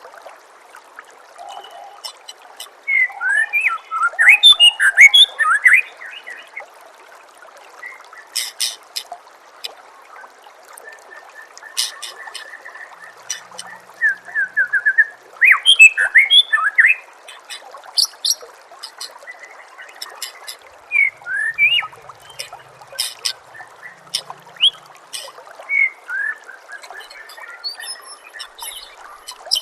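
White-rumped shama singing in bursts of quick, varied whistles and sharp chips, over a steady trickle of running water; the loudest song phrases come a few seconds in and again about halfway through.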